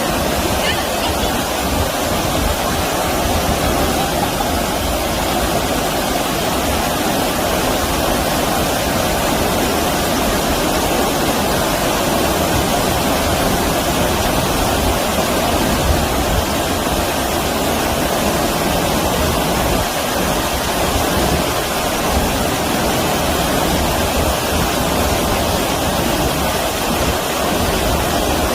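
Stream water rushing steadily, an unbroken even noise that does not change.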